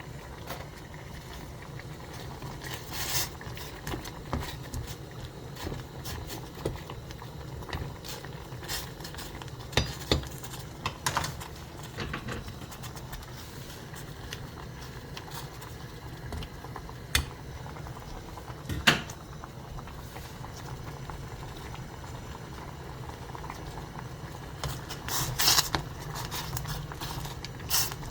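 Water boiling in a pot, with a steady low rumble under scattered clinks and clatters of cooking utensils and pans. The loudest clatters come about 19 seconds in and near the end.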